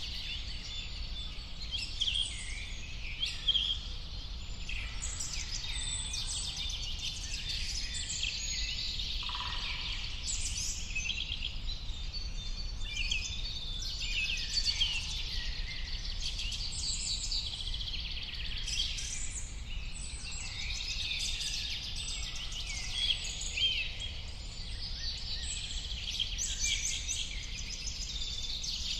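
A chorus of many birds singing and chirping at once, with overlapping high calls and trills, over a steady low background rumble.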